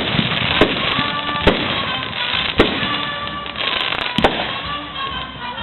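Aerial fireworks going off: several sharp bangs a second or so apart over continuous dense crackling.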